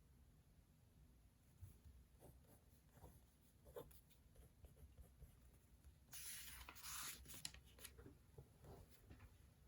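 Faint writing on paper: scattered light taps and short strokes, with a longer scratchy run of strokes about six seconds in.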